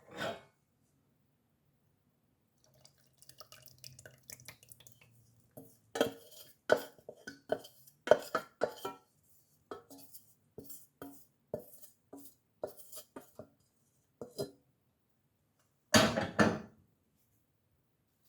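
Containers and utensils being handled while mixing a hair oil: a run of sharp clinks and knocks, with a louder clatter near the end.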